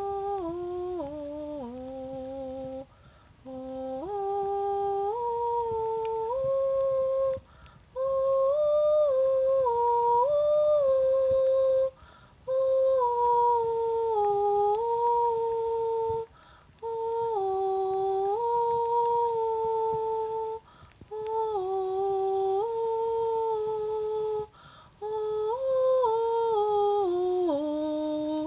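A person humming a slow, wordless melody in held notes that step up and down, in phrases of about four seconds separated by short pauses.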